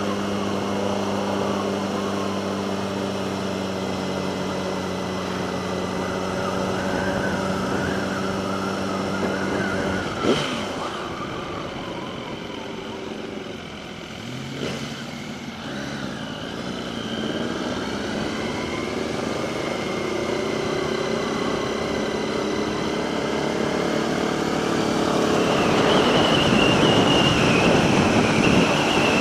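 Motorcycle engine running at a steady pitch, then easing off about halfway through and climbing in pitch again as it picks up speed. Wind noise grows near the end.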